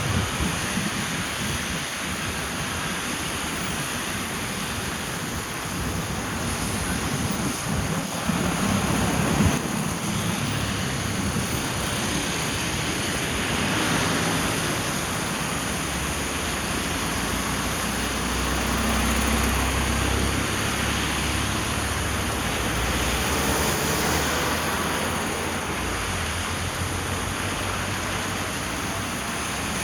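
Steady rushing noise of rain and a car's tyres on a wet road, with a deeper rumble building through the middle.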